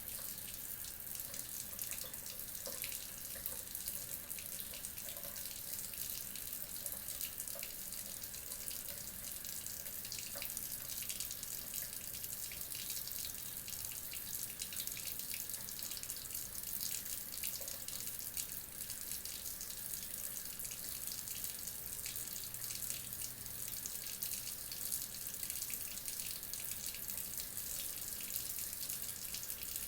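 Tap water running steadily into a sink, a continuous splashing hiss with fine spattering.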